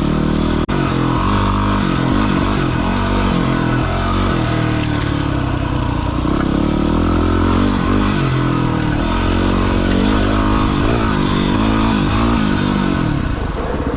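Dirt bike's single-cylinder engine revving up and down with changing throttle while riding a rough trail. It settles to an even, lumpy idle near the end.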